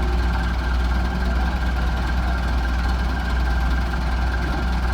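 Heavy diesel machinery engine running steadily, a deep low drone with a steady higher tone over it.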